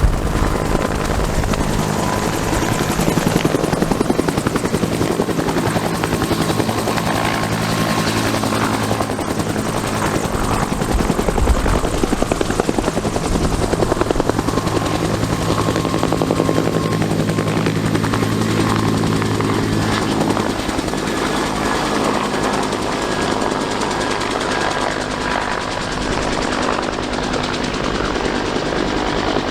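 Bell UH-1 Huey helicopters running on the ground with rotors turning, a steady loud mix of turbine engine noise and rotor beat, ahead of take-off.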